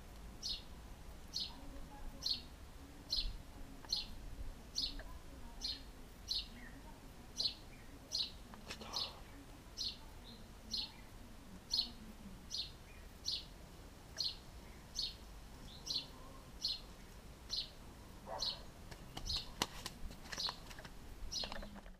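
A bird chirping over and over, short high chirps roughly one to two a second, with a few faint knocks and clicks near the end.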